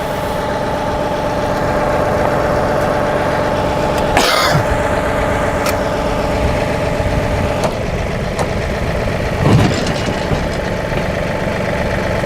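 John Deere 2038R compact tractor's diesel engine idling steadily. A brief hiss comes about four seconds in, and a few light clicks and a dull knock come later, near nine and a half seconds.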